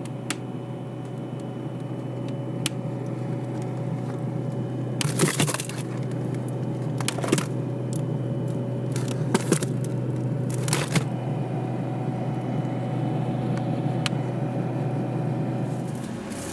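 Steady hum of a kitchen appliance, with several short clatters and rustles of handling about five, seven, nine and eleven seconds in.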